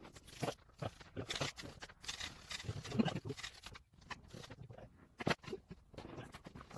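Irregular knocks, taps and brief scraping of hand tools and metal parts being handled during mechanical work on a car, with a sharper knock about five seconds in.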